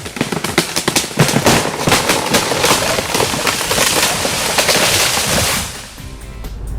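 A tree coming down: a dense run of crackling and snapping as wood and branches break, which dies away a little before six seconds in.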